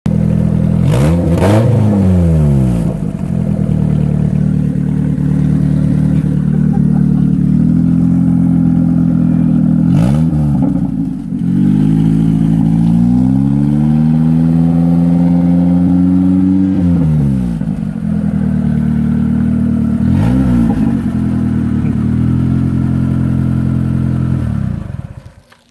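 Honda CRX four-cylinder engine with its exhaust broken open just after the catalytic converter. It idles loudly, unmuffled, and is revved: quick blips three times, and one slower climb held for several seconds before dropping back. It cuts off suddenly near the end.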